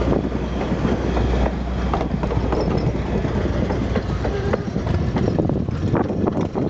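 Strasburg Rail Road passenger train rolling past, its wheels clacking over the rail joints with a steady low rumble.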